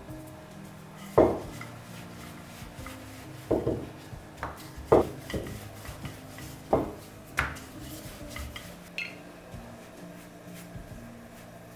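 Kitchenware knocking and clinking: dishes, pans and utensils being handled and set down, about six sharp knocks, the loudest just over a second in.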